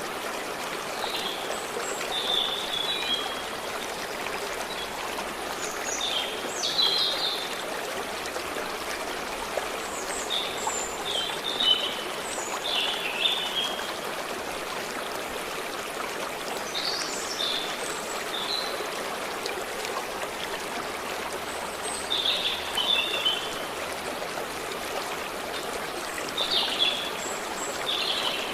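Steady rush and trickle of a forest stream, with short bird calls coming every few seconds over it.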